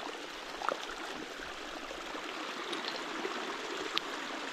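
Steady rush of running water, with a few short plinks and gurgles over it.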